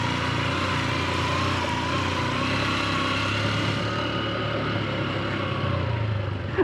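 Honda XR150's single-cylinder four-stroke engine running at a steady, slightly wavering pitch while the bike is ridden, over a low drone.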